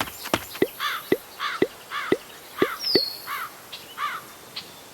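A bird calling in a steady series of short chirps, about two a second, with a brief high falling whistle about three seconds in.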